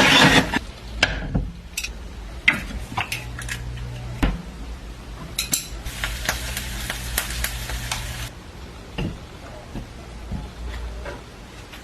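Kitchen work sounds: a series of clinks and knocks of utensils against dishes and pans, with a steady low hum that runs for a second or two, twice.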